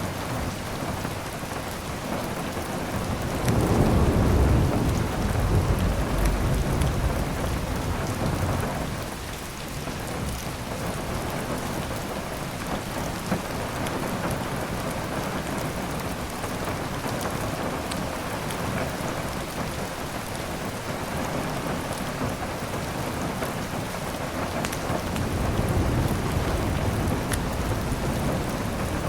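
Steady heavy rain with a long rumble of thunder a few seconds in and a softer roll of thunder near the end. Occasional small pops from a crackling fireplace.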